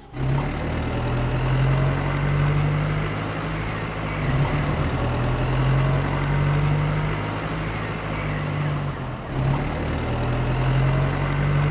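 A small motor running steadily with a low hum that wavers slightly in pitch, starting suddenly.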